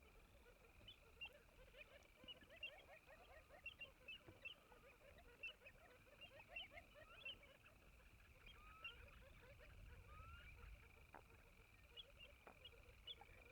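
Faint wetland bird chorus: many short, high chirps overlapping throughout, with lower chattering calls beneath.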